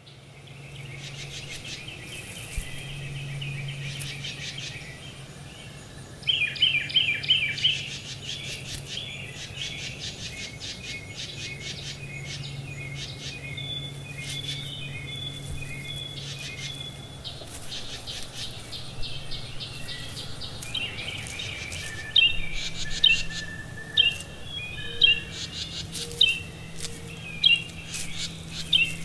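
Several birds chirping and calling, with a steady low hum underneath. In the last several seconds one bird repeats a loud chirp about once a second.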